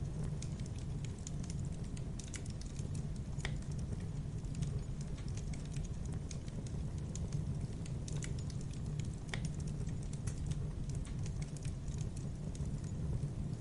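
Wood campfire crackling: dense small snaps and pops over a steady low rumble of burning, with a couple of sharper pops about three and a half and nine seconds in.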